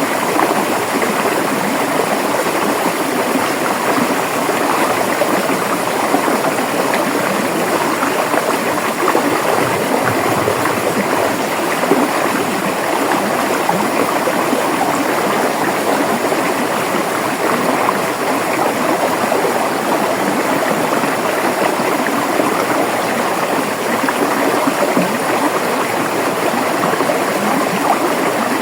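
River water flowing and burbling over rocks, a steady rushing with fine gurgling texture.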